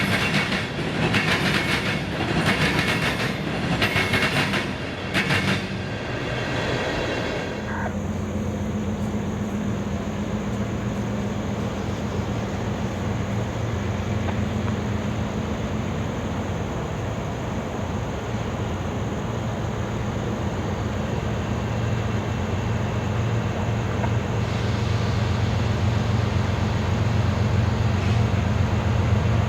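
Freight train wheels clicking over the track about once a second, with a high metallic ring. The clicking stops about seven seconds in, leaving a steady low diesel rumble and hum that grows louder near the end.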